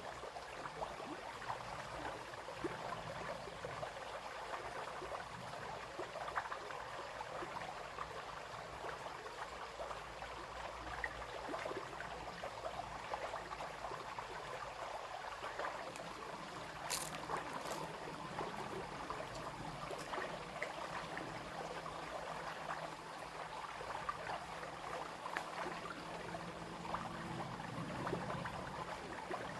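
Small brook babbling and trickling over stones, a steady even burble with many small splashes.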